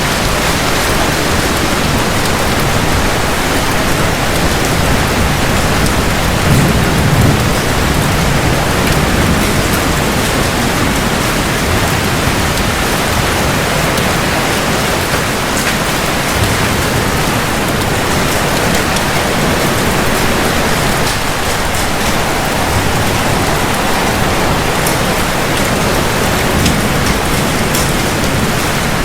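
Steady heavy rain falling on hard surfaces, with a low rumble of distant thunder swelling about seven seconds in.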